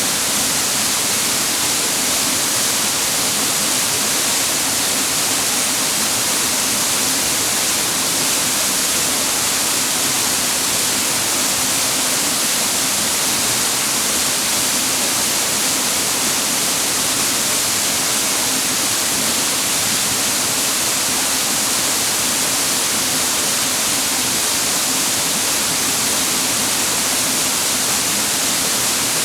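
Water from a mountain waterfall rushing steadily over rocks, an even, loud hiss with no breaks or changes.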